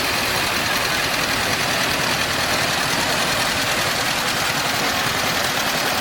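Vintage tractor engine running steadily at low revs, an even mechanical rumble with no change in speed.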